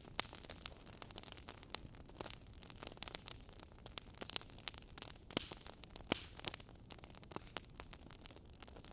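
Wood fire crackling in a fireplace: irregular pops and snaps over a soft steady hiss.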